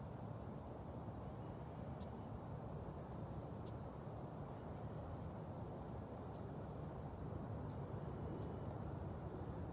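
Outdoor ambience: a steady low rumble that grows slightly louder toward the end, with a few faint, short, high bird chirps scattered through it.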